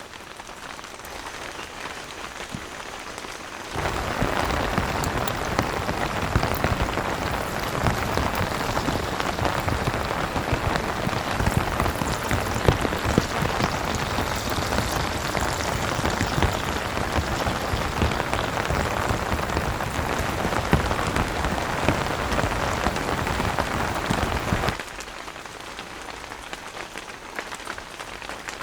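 Heavy rain falling, a dense patter of drops. It jumps suddenly to much louder rain about four seconds in and drops back just as suddenly to lighter rain near the end.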